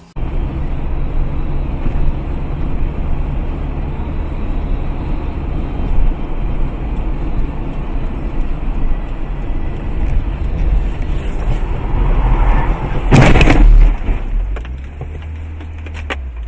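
Steady road and engine rumble of a car on the move, then one loud bang about thirteen seconds in, the impact of a car crash; the rumble is lower after it.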